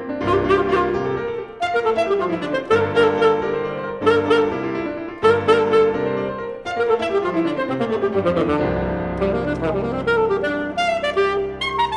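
Alto saxophone and piano playing a fast classical sonata passage, with repeated struck piano chords and quick falling runs. A long held saxophone note begins near the end.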